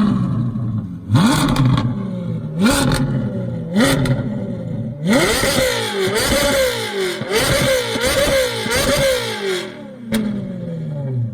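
Ferrari engine with a straight-pipe exhaust being revved while stationary: three quick blips, then a run of rapid revs that rise sharply and fall back, before the revs drop to idle with a single sharp crack.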